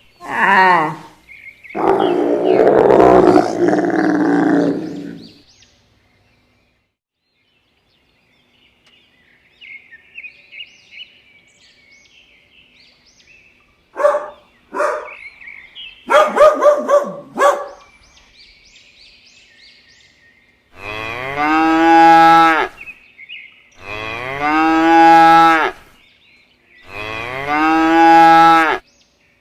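A run of different animal calls, ending with a cow mooing three times, each moo about two seconds long. Before that come a rough, noisy call in the first few seconds, faint chirping and a few short pitched calls.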